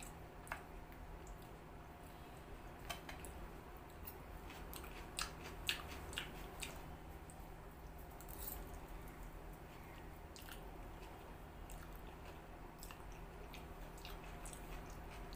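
Close-miked chewing of egg chow mein noodles, with scattered short sharp clicks.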